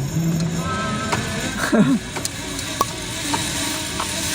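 Steady rushing hiss of a zip-line ride, getting stronger toward the end, with a few light ticks and a brief wavering vocal cry a little under two seconds in.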